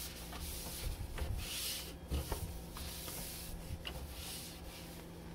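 Surfaces inside a refrigerator being scrubbed and wiped down by hand during cleaning: a series of rubbing strokes, each lasting about half a second to a second, with a few light knocks.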